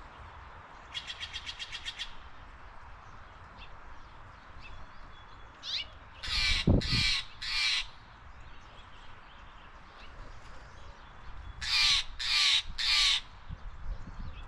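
Steller's jay giving harsh calls in two series of three, about five seconds apart. A quick rattle of about a dozen clicks comes about a second in.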